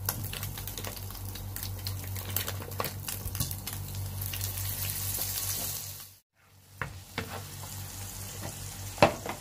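Food frying in oil in a pan: a steady sizzle with scattered crackles and pops over a steady low hum. The sound cuts out for a moment about six seconds in, then the frying resumes, with one sharp, louder pop or clack near the end.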